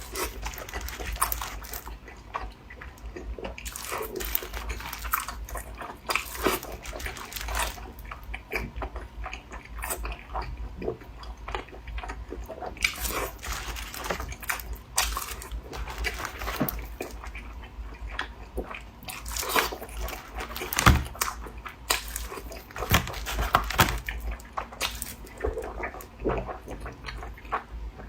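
Close-up eating sounds of a person biting into and chewing small soup dumplings (guantang bao) with a fresh-meat filling: irregular soft, wet mouth clicks.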